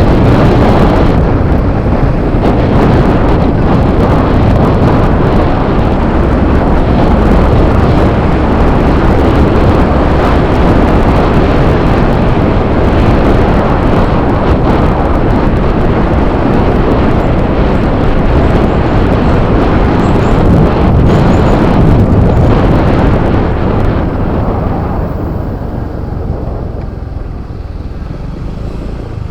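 Yamaha Fazzio scooter on the move: engine and rushing wind noise on the microphone, dropping off in level near the end.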